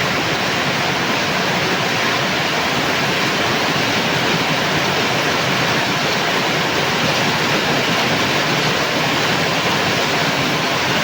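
Steady heavy rain: a dense, even hiss with no single drops or other sounds standing out.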